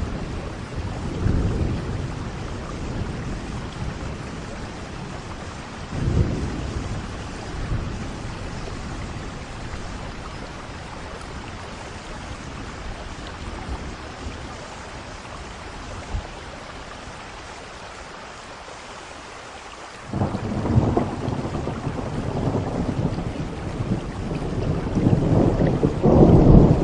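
Steady rain with thunder. A rumble comes near the start and a sudden clap about six seconds in, then only rain for a while. A loud thunderclap breaks about twenty seconds in and rolls on, growing louder toward the end.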